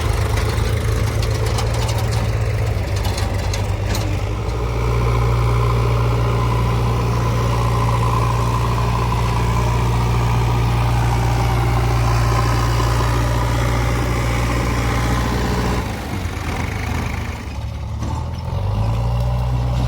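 Heavy diesel engine running steadily. It picks up speed about four seconds in, drops back to a lower speed near sixteen seconds, and picks up again near the end.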